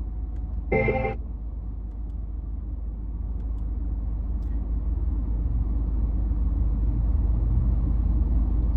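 Car cabin noise while driving: a steady low road-and-engine rumble that slowly grows louder, with a short pitched sound about a second in.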